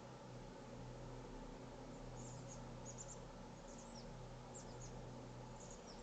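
Small birds giving high, thin chirps in quick clusters, starting about two seconds in, over a steady hiss and low hum.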